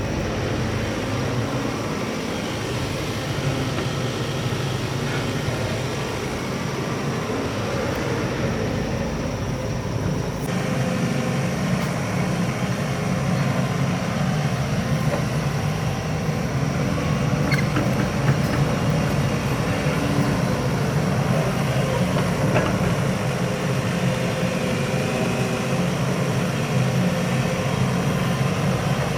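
Excavator's diesel engine running steadily, with a shift in its sound about ten seconds in.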